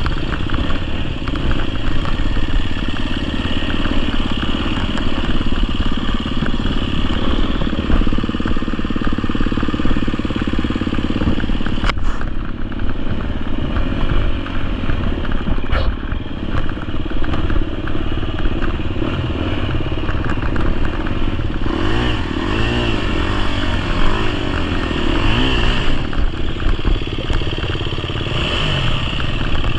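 GasGas EX250F's 250cc single-cylinder four-stroke engine running under way, the revs rising and falling, with some clatter from the bike.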